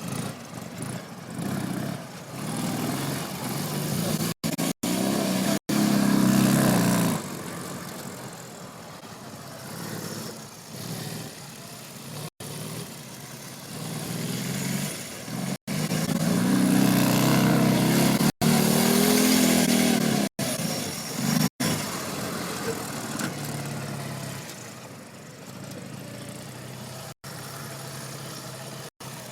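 Dnepr-11 sidecar motorcycle's flat-twin engine running and revving hard during a burnout and drift, with two long high-rev surges, one about five seconds in and a longer one from about fifteen to twenty seconds, and lower running between. The sound cuts out for an instant several times.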